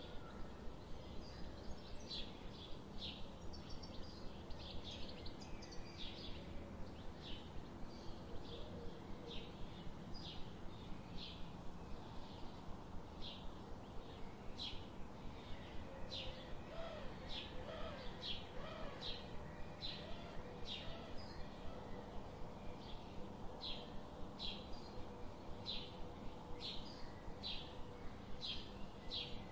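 A bird chirping repeatedly, one short high chirp about every second, over faint background noise.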